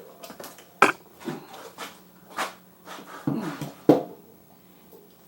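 A handful of sharp clicks and knocks at uneven intervals, the loudest about a second in and just before four seconds, from the steering head parts and loose ball bearings of a motorcycle front end being worked loose by hand during disassembly.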